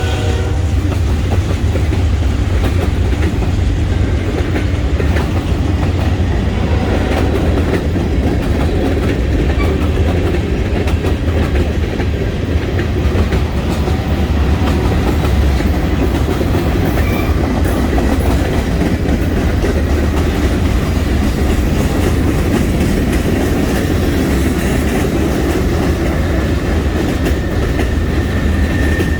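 Norfolk Southern freight train rolling past at close range: a loud, steady rumble of the cars with wheels clacking over the rail joints. A thin high wheel squeal comes in near the end.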